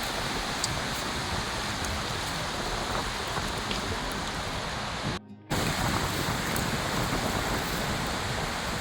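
River water rushing steadily, an even hiss with no pitch to it, broken by a sudden half-second dropout about five seconds in.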